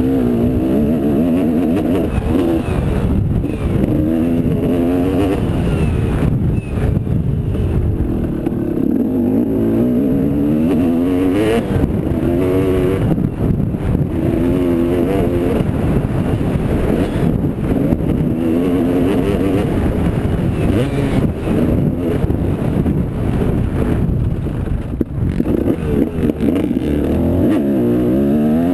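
Motocross motorcycle engine run hard, its pitch climbing and dropping again and again as the rider throttles on and off and shifts through the gears.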